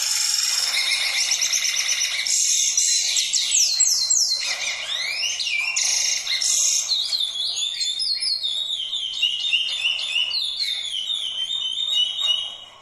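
Songbirds singing continuously, a dense run of rapid trills and quick downward-sweeping whistled notes, several phrases overlapping, fading away near the end.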